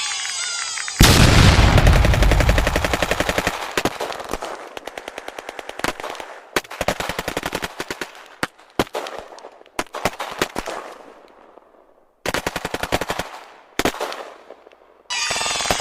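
Rapid-fire crackling bangs like automatic gunfire: a loud burst about a second in that trails off, then several shorter rattling bursts that stop and start.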